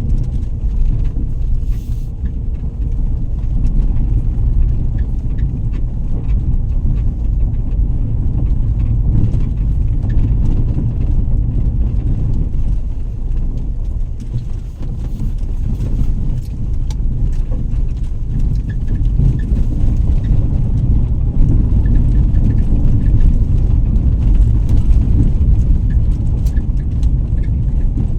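Low, steady rumble of a vehicle on the move, its loudness wavering.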